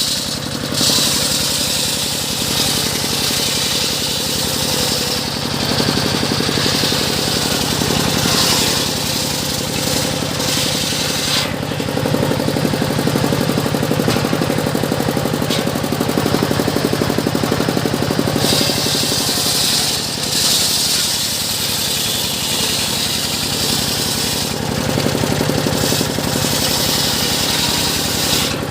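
Engine-driven circular saw running steadily, its motor firing at an even rate. Several times a higher hissing whine rises over it for a few seconds as the blade cuts through teak.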